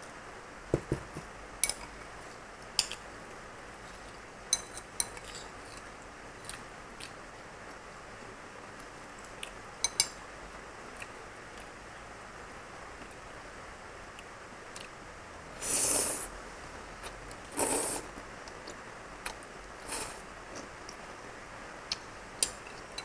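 Eating sounds: scattered clicks and taps of a fork against the spaghetti's container, with two longer, louder noisy sounds about two-thirds of the way through.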